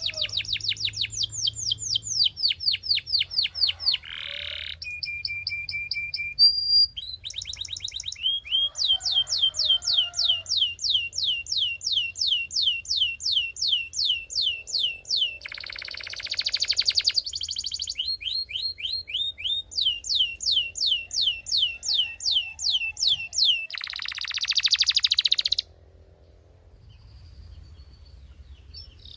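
Belgian canary singing a long song of fast, evenly repeated high notes, switching to a new trill every few seconds, with two denser buzzing rolls about halfway through and near the end. The song then drops much quieter for the last few seconds.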